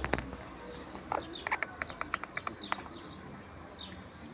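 A quick run of light, sharp clicks and taps from the plastic water inlet valve being worked loose by hand, with birds chirping in the background.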